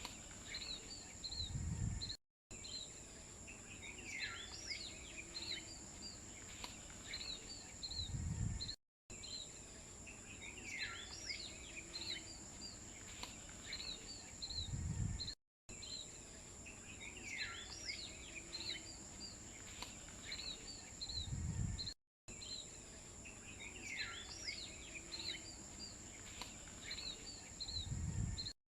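Looped nature ambience: birds chirping over a steady high-pitched whine. The loop repeats about every six and a half seconds, and each pass ends with a low thud and a brief cut to silence.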